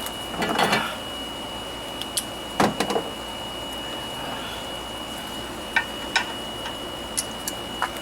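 Scattered clinks and knocks of hand tools and small metal lawnmower parts being handled during hand disassembly, a few short sounds at a time with sharp ticks near the end. A steady thin high-pitched tone runs underneath.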